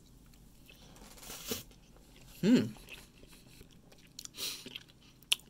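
A person eating a forkful of instant cup noodles: quiet chewing and mouth noises, a brief hummed 'mm' about halfway through, and a sharp click near the end.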